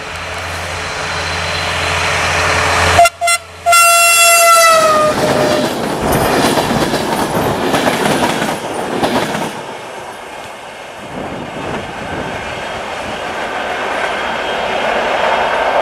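Diesel-hauled passenger train passing close by. The locomotive's horn sounds about three seconds in, breaks briefly, then holds and drops in pitch as the locomotive goes past. The coaches then clatter over the rail joints.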